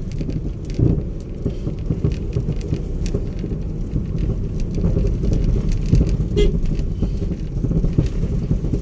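Road noise inside a moving vehicle: a steady low rumble of engine and tyres with scattered small knocks and rattles.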